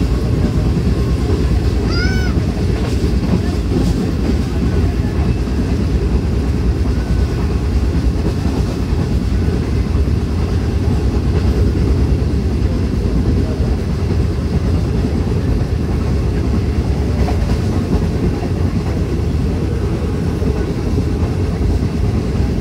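Passenger train running along the line: a steady, loud rumble of the carriages on the rails.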